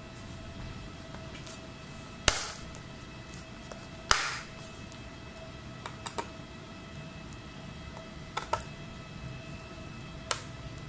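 Sharp clicks and knocks of hard objects handled on a repair bench, two loud ones then a few lighter ones, over a faint steady electrical whine.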